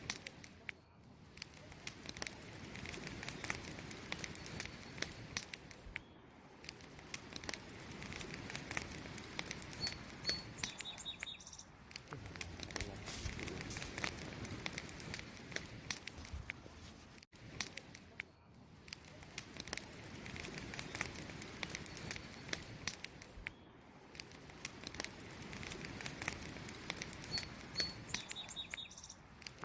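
Campfire crackling: burning wood pops and snaps in many sharp, irregular clicks over a low hiss. Crickets chirp steadily in the background.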